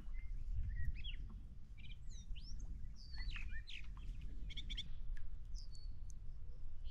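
Songbirds chirping and whistling in many short calls, some rising or falling in pitch, over a steady low rumble.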